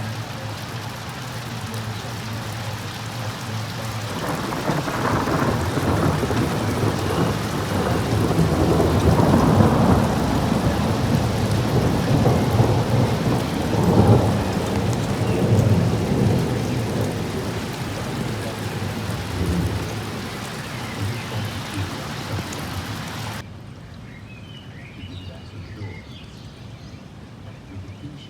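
Rain falling steadily with a long roll of thunder. The rumble builds about four seconds in, peaks in the middle and slowly fades away. Near the end the sound drops abruptly to a much quieter level.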